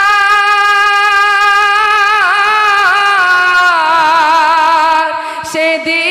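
A high solo voice singing a Bengali devotional song, holding one long note with vibrato, then gliding down in steps from about two seconds in; the line breaks off briefly near the end before the voice comes back in.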